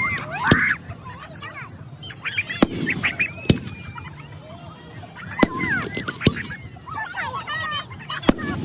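Fireworks shells exploding in sharp single bangs every second or two, over a steady layer of short, high-pitched honking calls.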